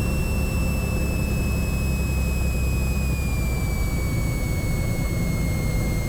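Cessna 182 Skylane's piston engine and propeller running at low power in the cabin: a steady low drone with a thin high whine that drops in pitch about three seconds in as the engine slows.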